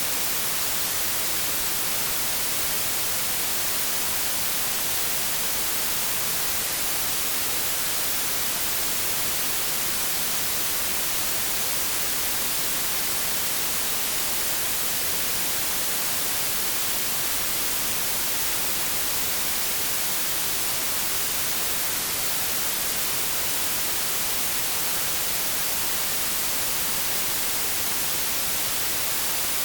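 Steady white noise: an even, unbroken hiss across the whole range, brightest in the highs.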